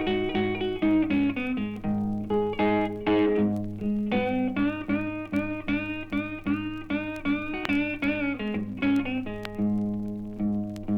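Blues guitar instrumental break: picked treble notes with bent strings over a steady droning bass note.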